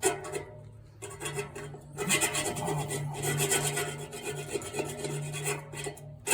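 Rasping scrape on the steel exhaust-stack pipe, starting about two seconds in and going on for about four seconds.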